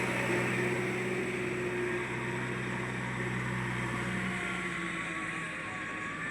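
Diesel engine of heavy machinery running steadily, its low hum fading out about four seconds in.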